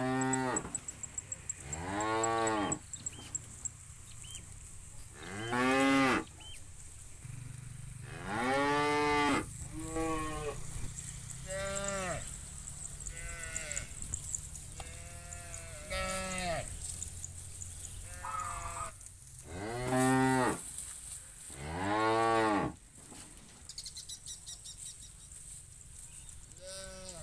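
A herd of cattle mooing again and again: about a dozen drawn-out calls of a second or so each, some overlapping, the loudest about a quarter of the way in and near the end.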